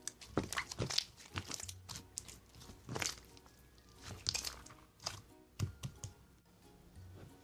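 Irregular sharp clicks and crackles, several a second, with faint steady tones underneath.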